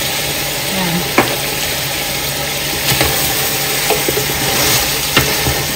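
Chicken and curry paste sizzling in a large aluminium pot as a wooden spatula stirs them, with a few sharp knocks of the spatula against the pot.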